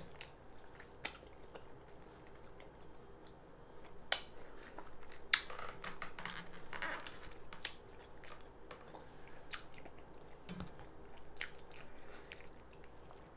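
A person chewing fufu and egusi stew close to the microphone, with scattered sharp mouth smacks and clicks.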